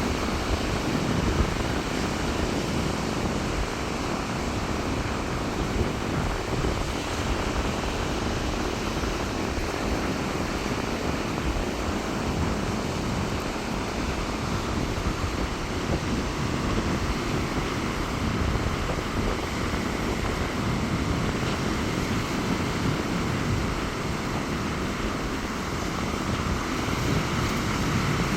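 Rough sea surf breaking on a sandy beach in strong wind, with wind buffeting the microphone: a steady, unbroken wash of noise, heaviest in the low end.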